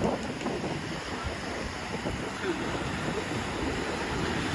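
Sea waves washing onto a beach, with wind noise.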